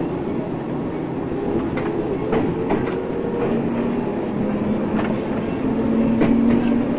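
JR East 113 series electric train running, heard inside the car: a steady hum of motors and wheels whose pitch shifts, with the wheels clicking over rail joints about five times.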